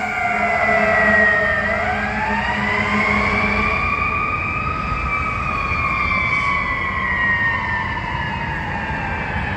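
Fire engine siren wailing: its pitch falls for the first couple of seconds, climbs slowly to a peak about halfway through, then slowly falls again, over a low rumble.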